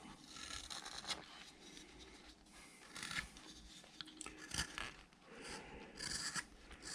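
Carving knife shaving wood in several short, irregular strokes, each a faint scraping slice.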